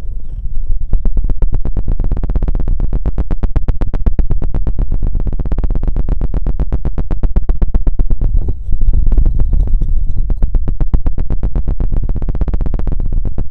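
Feather rod scratching and knocking very fast on an ASMR ear microphone: a rapid, even run of close scuffs and taps, heavy in the low end, with a brief break about two-thirds of the way through.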